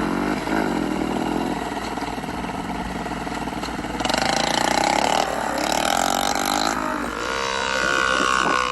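Small motorcycle engines revving, their pitch rising and falling, with a louder, higher-pitched rev starting about four seconds in.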